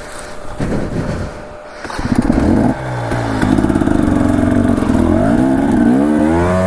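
Dirt bike engine: irregular rustling and clatter for about two seconds, then the engine comes in loud and runs steadily, revving up and down several times near the end.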